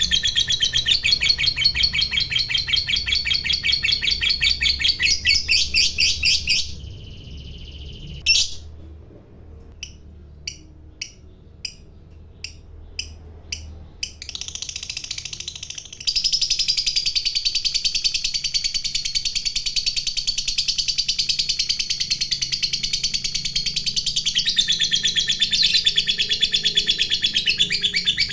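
Lovebird giving its long 'ngekek' chattering trill: a fast run of high, shrill repeated notes for about six seconds, then a pause broken by a string of single short chirps, then a second long, unbroken trill.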